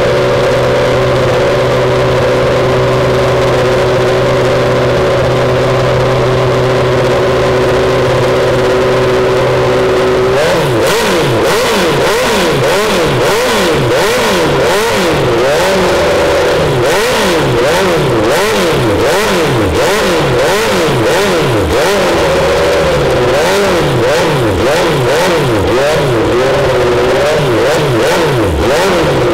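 Jaguar XJR-14's 3.5-litre racing V8 held at steady revs for about ten seconds, then blipped up and down over and over, roughly once or twice a second, with sharp cracks among the blips.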